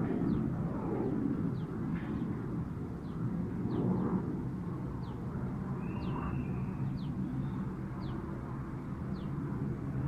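Olive-backed sunbird calling: short, high notes that fall in pitch, about one a second, over a steady low background rumble. About six seconds in there is one longer, lower whistle.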